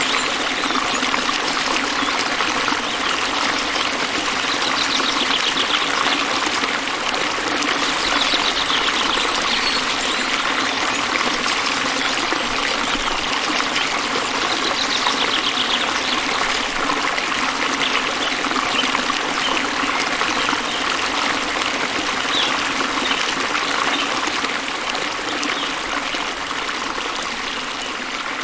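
Stream water running steadily, trickling and splashing over rocks, with a faint high trill recurring now and then above it.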